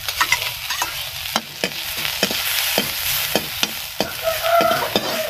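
Garlic paste frying in hot oil in a steel kadai, a steady sizzle, with a steel spoon clicking and scraping against the pan as it is stirred. A short metal-on-metal squeak comes about four seconds in.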